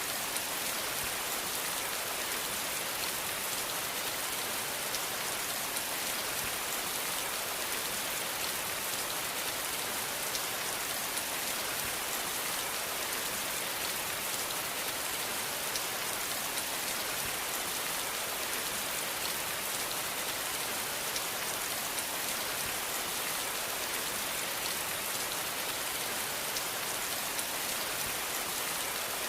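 Steady rain falling: a dense, even hiss with faint ticks of individual drops.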